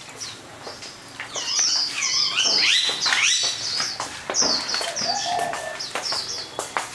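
Small birds chirping in quick runs of short, high, falling notes, with a few light clicks.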